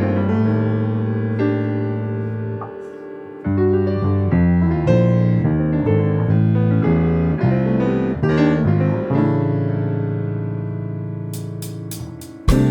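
Live jazz-fusion playing led by electric piano chords with low notes under them, the chords ringing out and fading. Near the end a run of sharp ticks starts, and the full band comes back in loudly just before it ends.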